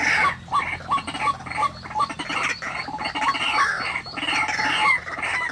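White-breasted waterhen (ruak-ruak) calling: a fast, steady run of short, hoarse, upward-hooked notes, about three a second.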